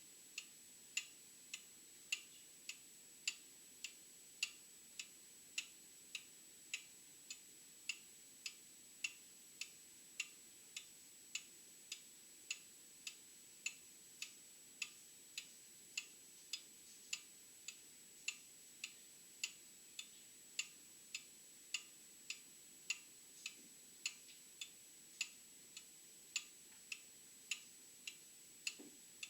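Old mechanical clock ticking steadily, a little under two ticks a second. A faint steady high tone runs underneath.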